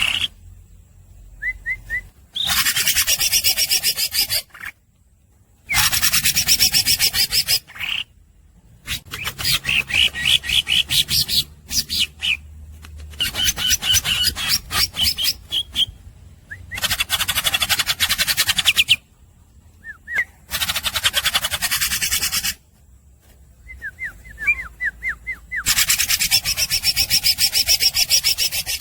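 Green leafbird (cucak ijo) singing non-stop: repeated bouts of fast, buzzy, rasping chatter a couple of seconds long, broken by short pauses, with a few quick high whistled notes between them.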